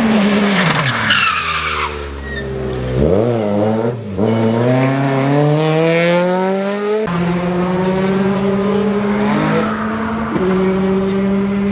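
Rally car engine at full throttle with tyre noise: the revs fall, dip sharply about four seconds in at a gear change, then climb steadily. About seven seconds in the sound cuts to another car holding steady revs, which step up once near the end.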